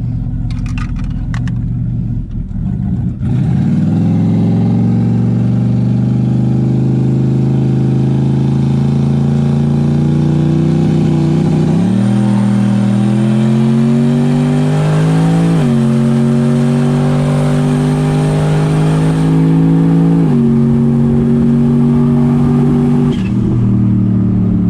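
Turbocharged LS V8 in a 4x4 Chevy Silverado launching from a standstill at full throttle and pulling hard through the gears. The engine note jumps up about three seconds in, then climbs steadily in pitch and drops back at each of four upshifts.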